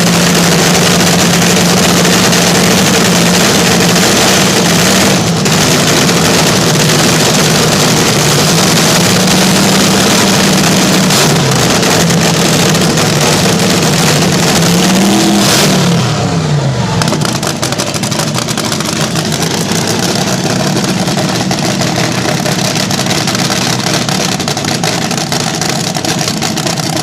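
Slingshot dragster engine running loud at high revs, its pitch wavering; about fifteen seconds in it rises briefly, then drops back and runs on lower and rougher.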